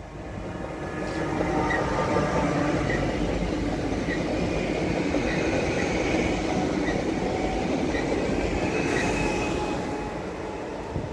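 Electric multiple unit passenger train passing on electrified track, its wheels running on the rails. The sound builds over the first second or two, stays steady while the cars go by with faint regular clicks, and fades near the end as the train moves away.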